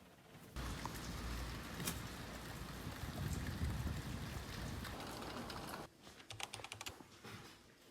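Steady rain hiss that cuts in suddenly about half a second in and stops just before six seconds, followed by a quick run of light clicks.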